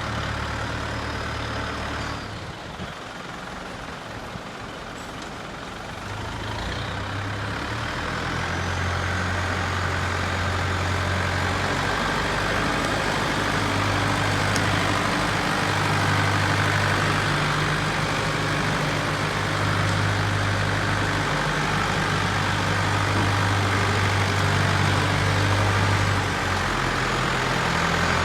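Heavy diesel engine running. It drops back about two seconds in, then rises from about six seconds and runs louder and steady for the rest.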